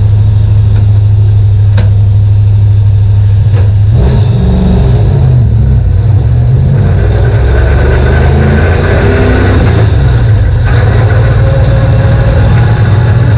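Super stock race car's engine running loud on track, steady at first, then its note rising and falling from about four seconds in as the throttle comes on and off.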